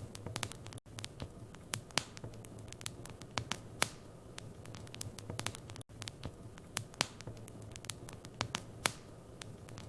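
Wood fire crackling in a fireplace: irregular sharp snaps and pops over a steady low hum. The sound cuts out briefly twice.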